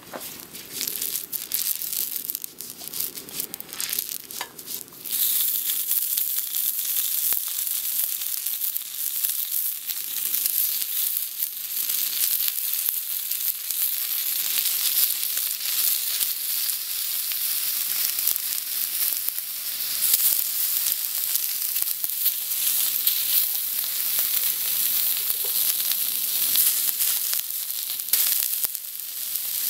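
Chicken skewers frying in oil on a hot cast-iron grill pan. The first few seconds are scattered crackles and spits, then about five seconds in it jumps to a steady, louder sizzle that carries on throughout.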